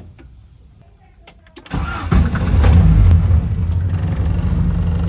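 A few light clicks of the key in the ignition, then the VW Gol's AP 1.6 four-cylinder engine starts about two seconds in. It revs up briefly and settles into a steady idle.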